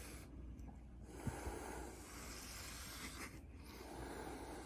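Cats hissing at each other: several faint, breathy hisses of a second or two each, with short breaks between.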